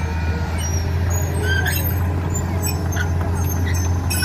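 A heavy engine running with a steady low drone, with short high chirps scattered over it.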